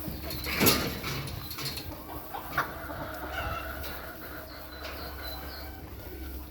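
Farm animal sounds: one loud, sharp call or noise about two-thirds of a second in, followed by short, scattered calls.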